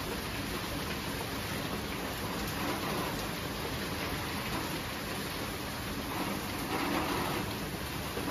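Steady heavy rain falling and pattering on surfaces, an even hiss without a distinct thunderclap.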